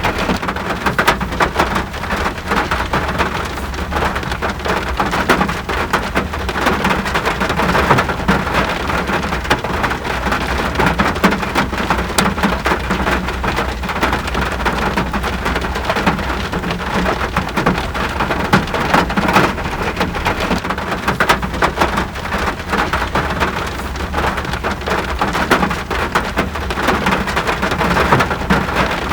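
Steady rain, a dense even patter of countless drops hitting a surface, with a constant low rumble beneath.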